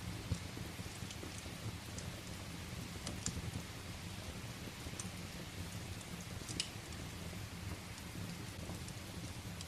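Steady rain with a low, steady rumble beneath it, and sharp crackles from burning firewood popping every second or two.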